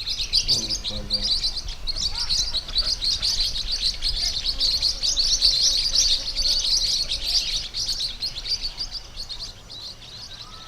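Pacific parrotlets chirping in rapid, overlapping high-pitched calls, thinning out and getting quieter over the last couple of seconds.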